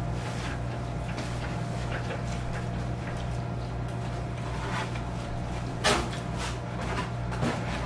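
Close-up eating sounds of a person chewing a glazed fried chicken wing: scattered wet smacks and crunchy clicks, the sharpest about six seconds in, over a steady low hum.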